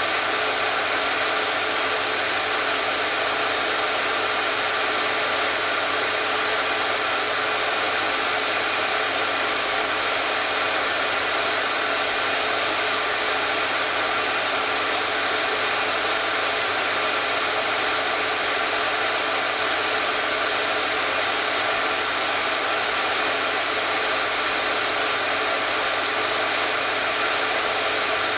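Electric hair dryer running continuously at a steady speed: an unchanging whooshing blower noise with a faint motor hum beneath it.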